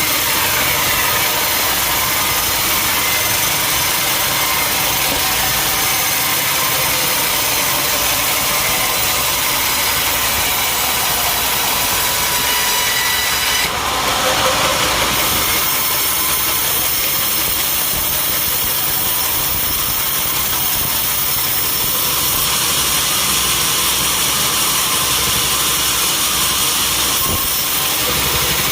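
Sawmill running steadily, its engine driving the saw as it cuts through mahogany, with a brief louder change about halfway.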